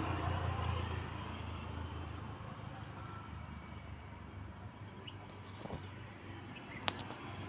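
Quiet background: a low steady hum that fades over the first second or two, a few faint high chirps, and a single sharp click near the end.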